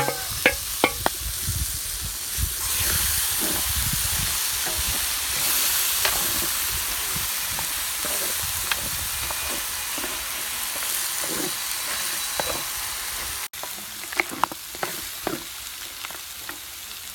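Seafood and tomato puree sizzling in a large metal wok while a wooden spatula stirs and scrapes through it. There are sharp knocks of the spatula against the pan in the first second and again a few seconds before the end, with a steady sizzle between.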